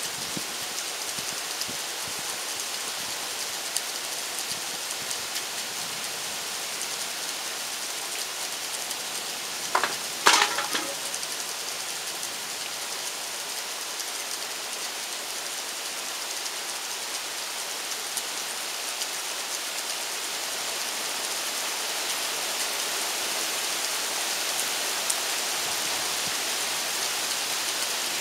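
Steady rain hissing, getting a little heavier in the last third. A few sharp knocks sound close together about ten seconds in.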